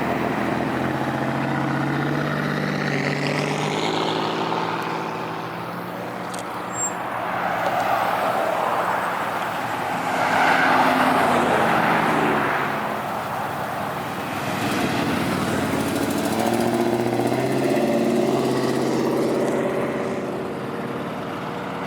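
Car engines running as vehicles drive past one after another, swelling louder about ten seconds in as one pulls away. Among them is a Ford Pinto fitted with a Buick Grand National turbocharged V6.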